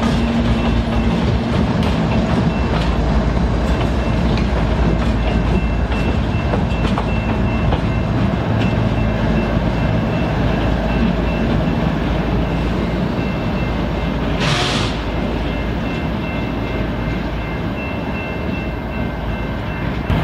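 Covered hopper cars and the rear GE ES44DC diesel locomotive of a grain train rolling past on jointed rail, with wheels clicking over the rail joints under a steady rumble, easing off slightly as the train moves away. A short hiss comes about two-thirds of the way through.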